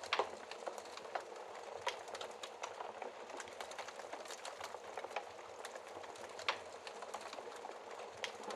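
Wood fire crackling behind a glass fireplace shield: a steady hiss with irregular small snaps and two louder pops, one just after the start and one about six and a half seconds in.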